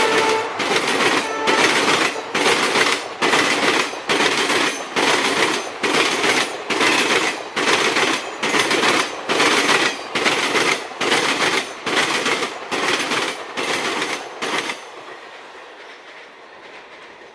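Express train passing at speed, its wheels clattering over rail joints in a steady clickety-clack of about two beats a second, just after a diesel horn blast dies away. The clatter stops about 15 seconds in, leaving a fading rumble as the train moves off.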